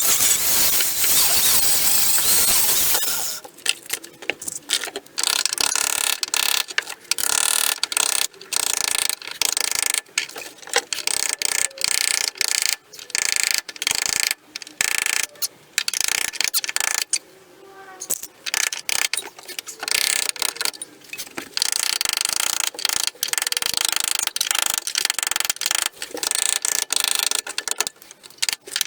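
Power tools cutting rusted sheet steel out of a car floor: a continuous harsh cutting noise for about three seconds, then rapid, choppy stop-start tool noise with many short breaks.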